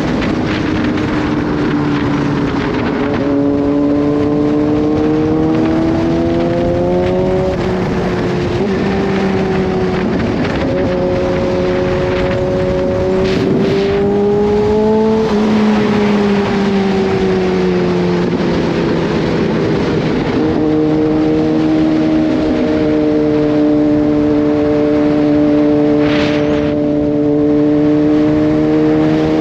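Kawasaki Z H2's supercharged inline-four engine under way at moderate revs, its pitch climbing gently and dropping back several times with throttle and gear changes, and holding steady near the end. Wind and road noise run underneath.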